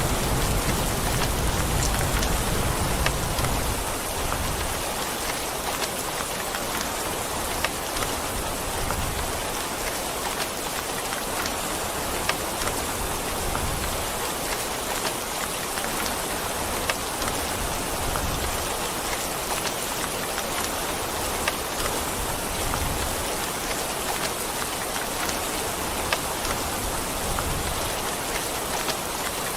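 Steady heavy rain falling on a surface, with scattered louder drop taps. A low rumble of thunder dies away over the first few seconds.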